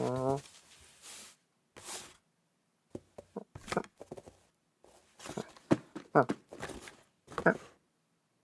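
Cartoon sound effects: a brief vocal sound at the start, two short swishes, then a run of irregular knocks and clatters.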